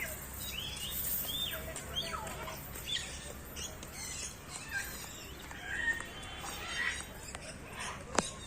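Many caged birds chirping, whistling and squawking at once in overlapping short calls. A single sharp click near the end.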